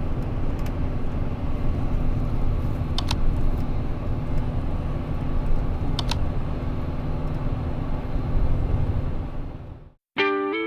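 Steady low rumble of a vehicle on the move, with a faint hum and two brief clicks about three seconds apart; it fades out near the end, and guitar music starts just before the close.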